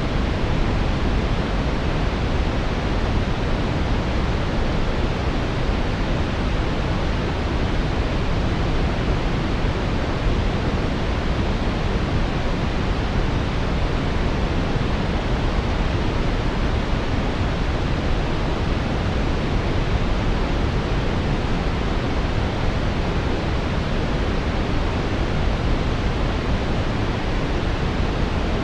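Steady brown noise: a constant deep rushing hiss, strongest in the low end and falling off toward the top, with no changes or interruptions.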